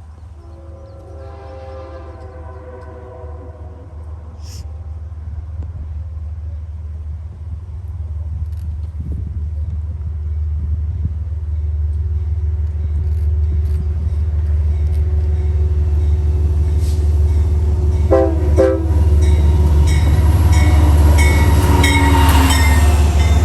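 Amtrak passenger train approaching, its diesel locomotive rumbling louder and louder. The multi-note horn sounds about a second in, then two short blasts about eighteen seconds in, and is held again as the train draws close.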